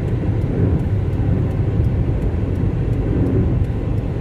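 Steady low rumble of road and engine noise from a car cruising along a highway, heard from inside the cabin.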